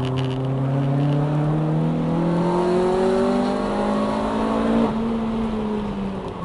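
Honda Civic EJ9 four-cylinder engine pulling hard under acceleration, its pitch climbing steadily for about five seconds. The driver then lifts off and the engine note drops and winds down as the car slows for the next corner.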